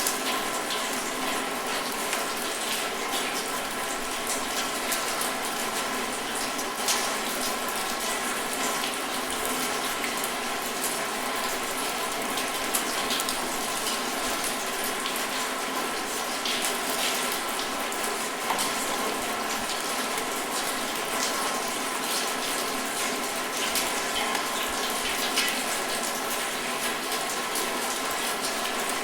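Steady rain falling, with scattered louder drop hits breaking through the even patter.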